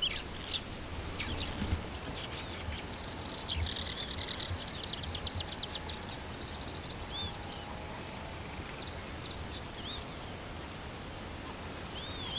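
Songbirds singing: fast high trills about three and five seconds in, then short arched whistled notes repeated every couple of seconds, over a steady low outdoor rumble.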